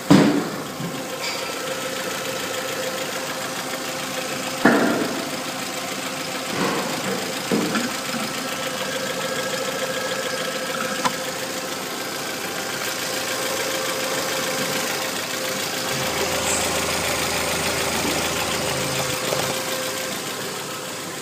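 Volkswagen ADY 2.0-litre four-cylinder petrol engine running steadily at idle. A few short knocks stand out over the idle, the loudest right at the start and others about five to eight seconds in.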